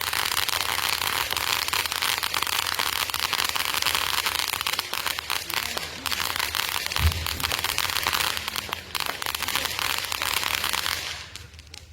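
Consumer firework crackling densely and without a break, a rapid mass of small pops, with one low thump about 7 seconds in; the crackle stops shortly before the end.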